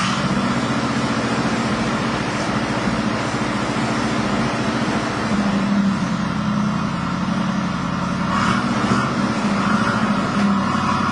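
Eleanor Mustang's V8 idling through its exhaust just after start-up, with a steady, lumpy beat.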